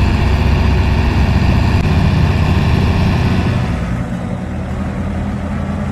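Tractor engine running steadily with a deep, even drone; it eases off slightly about four seconds in.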